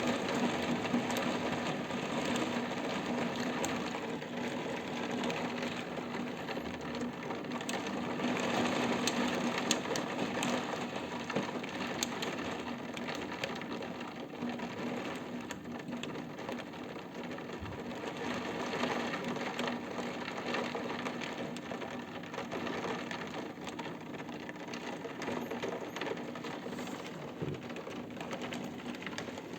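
Heavy rain falling steadily during a thunderstorm, with many sharp taps of drops striking close by and a low steady hum beneath.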